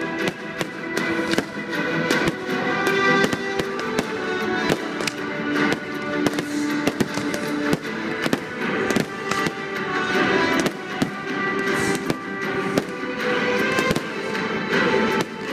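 Fireworks display: aerial shells bursting in many irregular sharp bangs and crackles, over continuous music.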